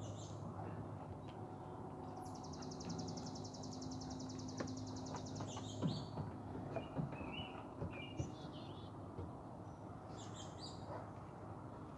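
Wild birds calling: a rapid, high-pitched trill lasting about three and a half seconds, with short chirps before and after it, over a low steady hum.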